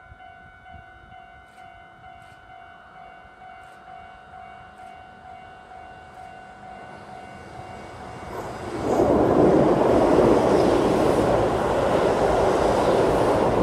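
Keihan electric train approaching and passing through the station without stopping: quiet at first, then loud rushing wheel and running noise from about eight seconds in as the cars go by close to the platform.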